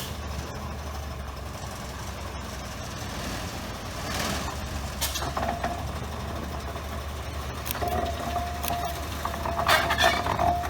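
Engine idling with a steady low rumble. A steady higher tone comes in about eight seconds in, and the noise grows louder near the end.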